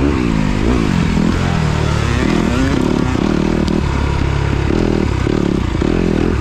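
Motocross dirt bike engine being ridden hard, its pitch rising and dropping again and again as the throttle is worked through the track.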